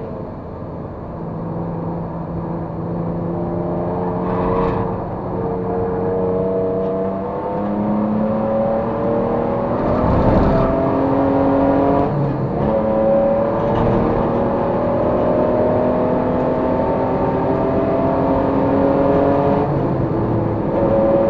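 Race car engine running hard under power. Its pitch climbs slowly and drops sharply several times, as at gear changes or lifting off.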